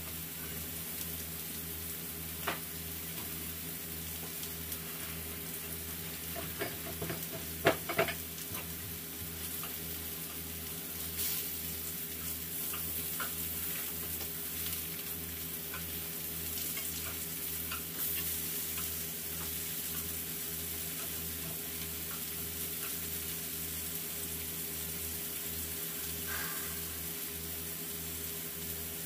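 Donggeurangttang (small round Korean meat patties) sizzling steadily in oil in a frying pan, with a few sharp clicks in the first third.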